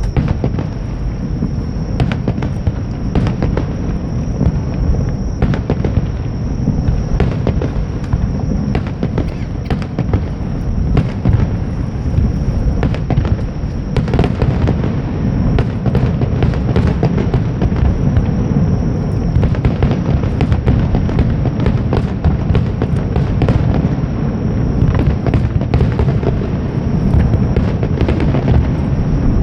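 Fireworks display: a continuous low rumble of shell bursts with many sharp bangs and crackles following one another throughout.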